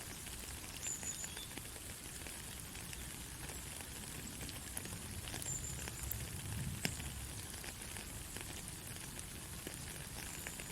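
Light rain falling steadily: an even hiss with many small drop ticks and one sharper tick about seven seconds in. A short high chirp sounds faintly three times.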